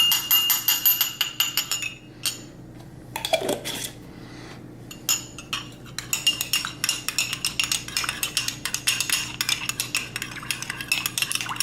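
A utensil beating rapidly against a bowl, many ringing clinks a second, as vinegar and peach glaze are whisked together. It comes in a short spell at the start and a longer one from about halfway to near the end.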